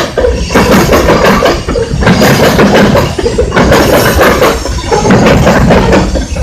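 Freight train of two-bay covered hopper cars rolling past close by, with loud wheel and rail noise whose level dips about every second and a half.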